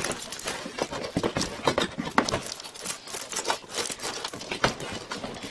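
Packaging being handled: a cardboard box being worked out of its plastic packaging, giving irregular knocks, taps and scrapes.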